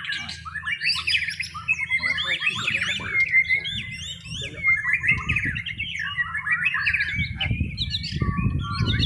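Young white-rumped shama singing a fast, varied song of quick whistled phrases, over a low background rumble.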